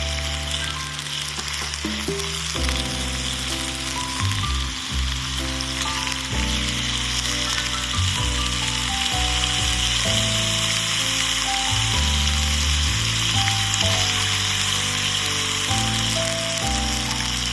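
Food sizzling steadily as it cooks, under background music with a slow melody.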